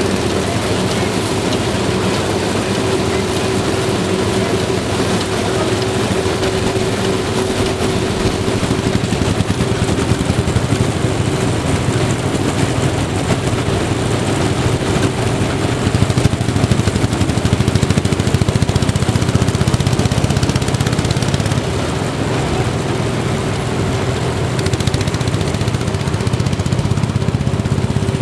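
Claas Huckepack combine running, its 28 PS VW industrial engine driving the threshing machinery with a steady drone and a held tone. It grows louder for a stretch in the middle, then settles back.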